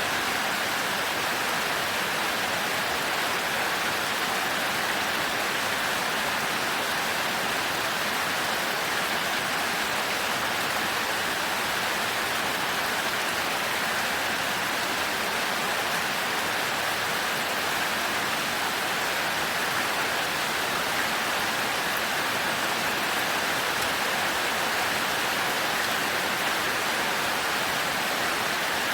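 Heavy rain falling in a steady, unbroken downpour with no thunder.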